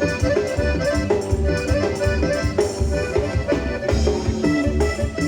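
Live Latin band music over a sound system: an instrumental passage with a steady bass beat and a melodic lead, with no singing.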